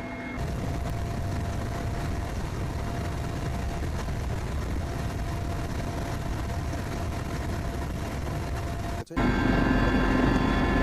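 Helicopter running steadily, its rotor and engine noise with a faint steady whine. It cuts out for an instant about nine seconds in and comes back louder.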